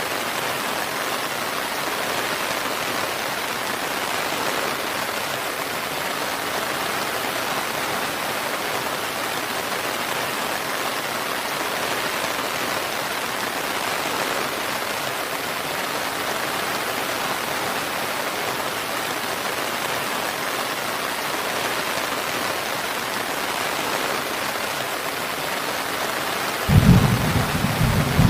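Steady, even rainfall. Near the end a loud, low rumble of thunder starts suddenly.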